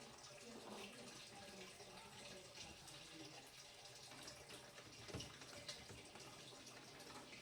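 Faint sounds of water and wet cleaning, with small clicks and a light knock about five seconds in.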